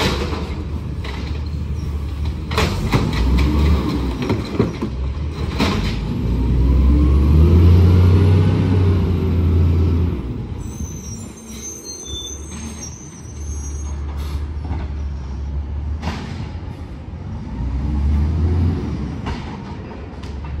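Garbage truck's diesel engine running and revving up and down twice, with a few sharp clanks and a brief high squeal around the middle.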